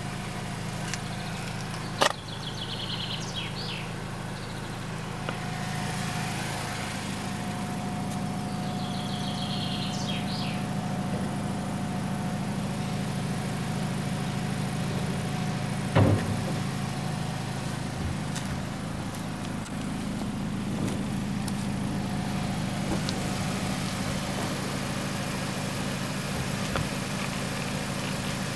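Nissan Qashqai 2.0 engine idling with a steady low hum. Two sharp knocks come about 2 s and 16 s in, and a bird chirps briefly twice.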